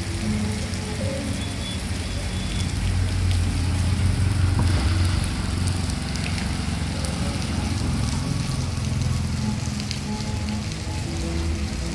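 Heavy rain falling steadily on a paved street, with a low steady hum underneath.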